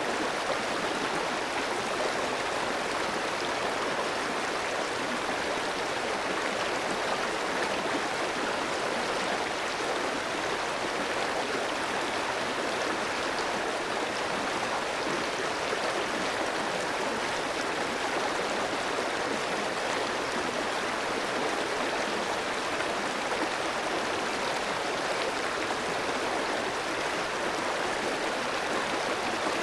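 Clear, shallow mountain stream flowing over rocks: a steady rush of running water with no change through the stretch.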